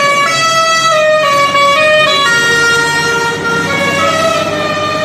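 Musical truck horn playing a tune: one loud, buzzy tone that steps up and down between notes every half second or so, without pause.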